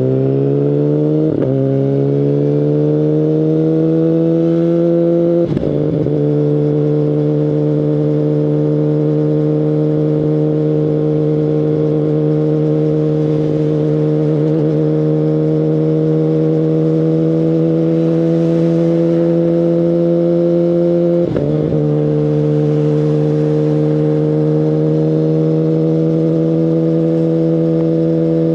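Kawasaki Ninja ZX-10RR's inline-four engine through an Akrapovic carbon full exhaust system, running at steady revs. Its pitch climbs over the first couple of seconds and then holds, with a brief knock a few seconds in and another about two-thirds of the way through.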